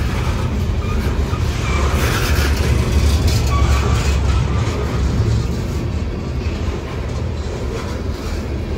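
Freight train covered hopper cars rolling past at close range: a steady, loud low rumble of steel wheels on rail.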